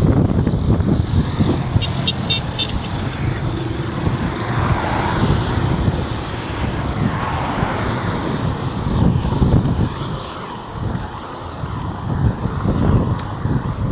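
Road traffic going past on a highway, with wind rumbling on the microphone. A short run of high-pitched beeps comes about two seconds in.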